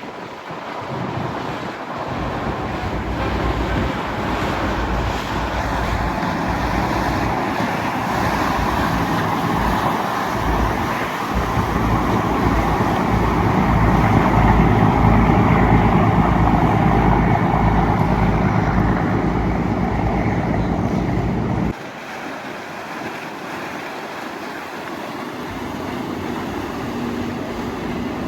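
Motorboat engines running as a boat passes close by, growing louder to a peak about halfway through, with wind on the microphone. The engine sound cuts off abruptly about three-quarters of the way in, leaving quieter wind and water hiss.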